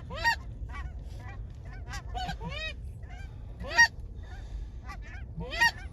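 Geese honking and clucking in a rapid series of short calls, the loudest about four seconds in, with a steady low wind rumble on the microphone.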